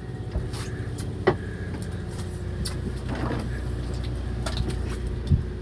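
Fishing boat's engine running steadily, a low drone, with a few sharp clicks and knocks over it.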